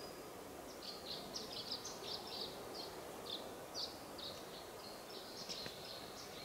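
A songbird singing a long run of short, high chirping notes, a few a second, over a faint steady background hiss.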